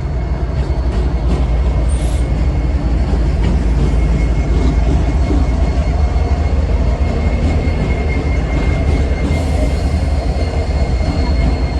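Train rolling past close by: a loud steady low rumble with a thin, steady high whine from the wheels and rails.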